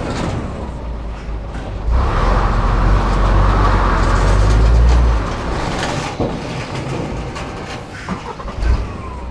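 Scania R420 truck's six-cylinder diesel running with a heavy low rumble. It swells under load for about three seconds, from about two seconds in, then eases back.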